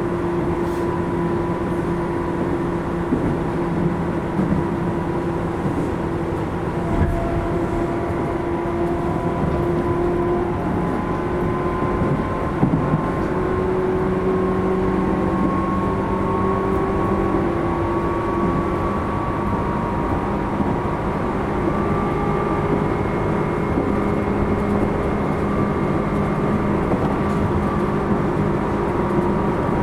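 Tobu 10000 series electric train running at speed, heard from inside its motor car: a steady rumble of wheels on rail with motor and gear whine, whose tones shift slightly in pitch, and a few short clicks.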